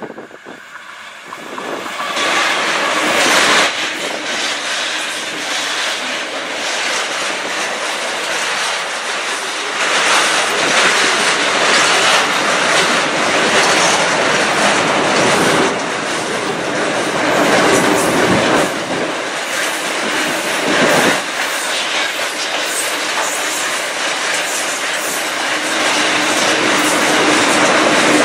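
Two CSR Ziyang SDA1 diesel locomotives hauling a long container freight train pass close by, followed by the wagons running over the rails. The noise rises sharply about two seconds in as the locomotives go by and stays loud as the container wagons pass.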